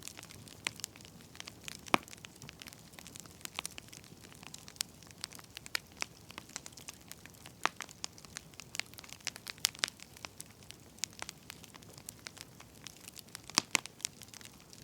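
Wood fire crackling, with irregular sharp pops and snaps over a low hiss; a loud pop about two seconds in and a cluster of pops near the end.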